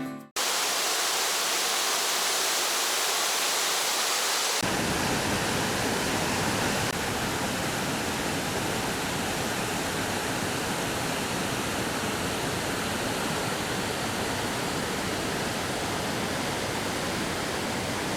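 Waterfall, a steady rush of falling water: thin and hissy at first, then fuller and deeper from about four and a half seconds in.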